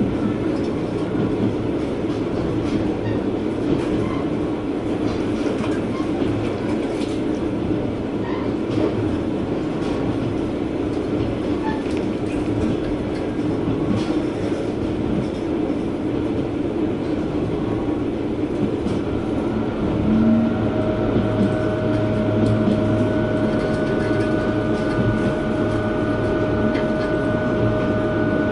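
Inside a KiHa 120 diesel railcar running along the line: a steady rumble of engine and wheels on track. About two-thirds of the way through, a steady whine joins in and the running gets a little louder.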